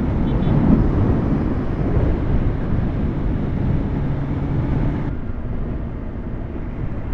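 Kawasaki ZX10R inline-four engine running while riding, with wind rushing over the microphone; the airy hiss falls away about five seconds in.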